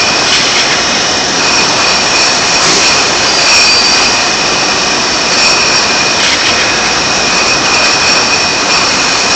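Bottle-washing machine running: a steady loud rushing noise with a constant high-pitched whine over it.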